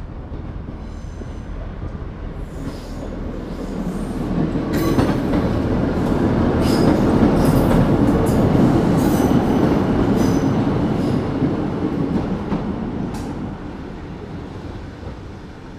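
British Rail Class 950 track assessment diesel multiple unit running through a station without stopping. The rumble builds as it approaches, is loudest while the cars pass, with a run of sharp clicks, then fades as it moves away.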